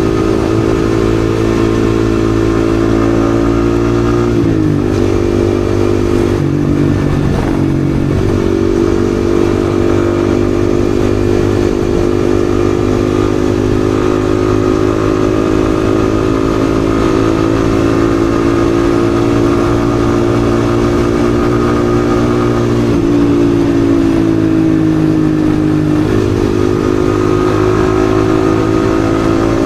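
Yamaha XSR155's single-cylinder engine running under way. Its steady note dips about four seconds in and again around twenty-three seconds, then climbs back up each time.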